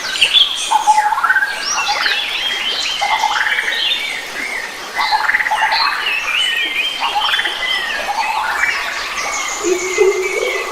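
A chorus of several wild forest birds singing and calling at once: overlapping chirps, whistles and quick rising and falling notes. A lower-pitched, steadier call joins near the end.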